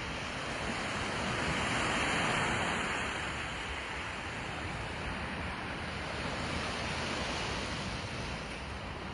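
Calm sea washing against the shore, a steady rush of water that swells a little about two seconds in.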